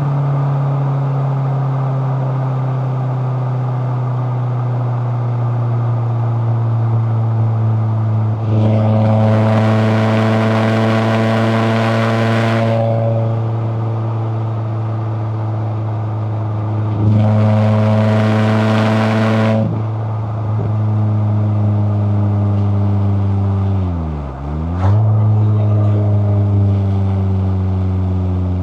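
Toyota AE86 Corolla Levin's twin-cam four-cylinder engine pulling at steady revs while driving, heard from inside the car. It gets louder and harsher twice for a few seconds under heavier throttle. Near the end the revs briefly dip and climb again, as in a gear change.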